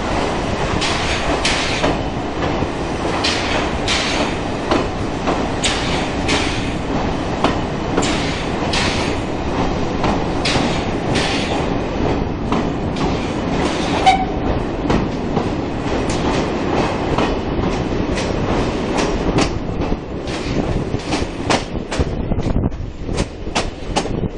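Coach of a steam tourist train running through a tunnel: a steady rumble with the clatter of wheels over rail joints, echoing off the tunnel walls. The sound drops and turns patchier near the end as the train comes out into the open.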